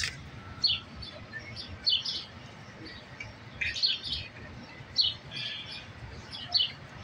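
Small birds chirping: short, high, repeated calls about once a second, some in quick pairs.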